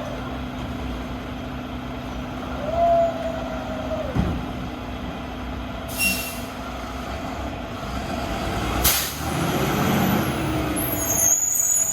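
Diesel garbage truck with a Boivin Evolution electric-arm body running steadily, with a whine that rises, holds and drops about three to four seconds in. A sharp hiss of air brakes comes near nine seconds, followed by heavier engine running.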